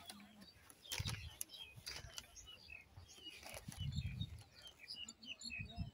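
Small birds chirping in many quick, short notes, most densely in the second half, over a few low rumbling bumps on the microphone.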